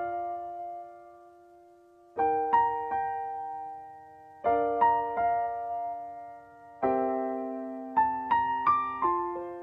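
Background piano music: slow chords struck every couple of seconds, each left to ring and fade, with a short run of notes near the end.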